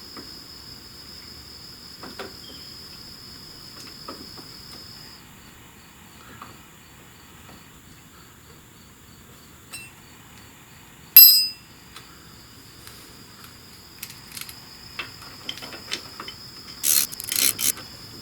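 Insects trill steadily in the background; the trill breaks into short, evenly spaced chirps for a few seconds before going steady again. About eleven seconds in, a single sharp metallic clink rings briefly and is the loudest sound. Near the end comes a short clatter of metal clicks as the shift linkage parts are worked loose.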